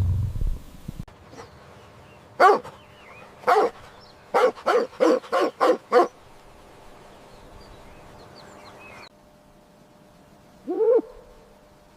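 Dog barking: two single barks, then a quick run of about six barks, then one longer whine-like call near the end. A low rumble fades out in the first second.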